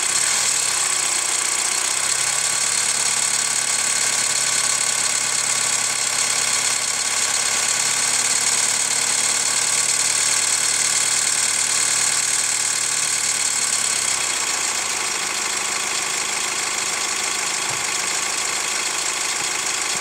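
Hyundai ix35's 2.0-litre CRDi diesel engine running hot, held at slightly raised revs and then dropping back to idle about fourteen seconds in, with a rhythmic knock that the owner cannot place between the hydraulic lifters and the timing chain tensioner.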